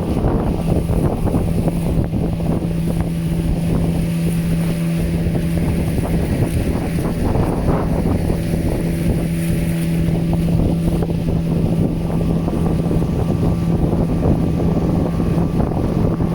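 A motorboat engine running steadily at an even pitch, with wind buffeting the microphone.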